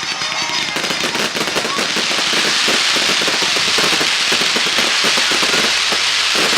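Fireworks crackling: a dense, rapid crackle of many small pops that thickens about a second in and keeps going.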